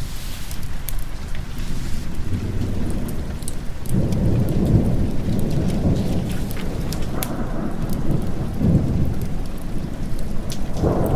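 Steady heavy rain with a long roll of thunder that swells about four seconds in and rumbles for several seconds, rising again near the end. Scattered sharp clicks sound over the rain throughout.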